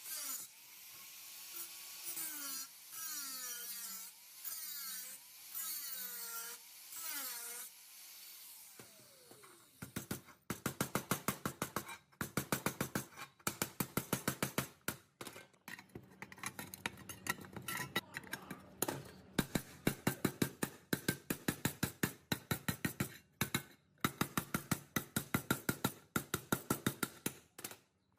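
Workshop tool work: about eight regular rasping strokes, roughly one a second, each with a squeaky rising and falling pitch. From about ten seconds in, a fast run of sharp, repeated strokes or knocks takes over.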